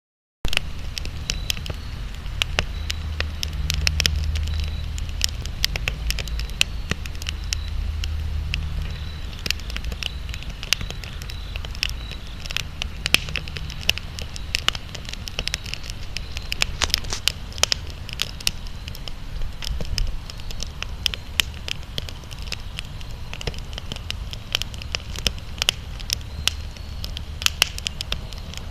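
Wood campfire crackling, with frequent irregular sharp pops and snaps over a low rumble.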